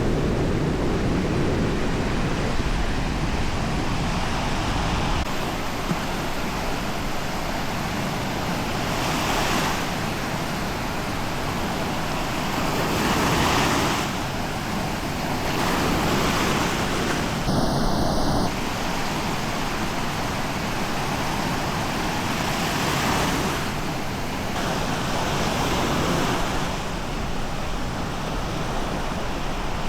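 Small waves breaking on a sandy shore, swelling and washing in every few seconds, with wind on the microphone. A brief high-pitched tone sounds for about a second just past halfway.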